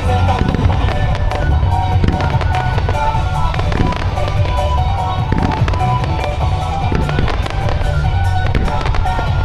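Fireworks bursting one after another in quick succession, with pops and crackles, over music played along with the display (a musical starmine).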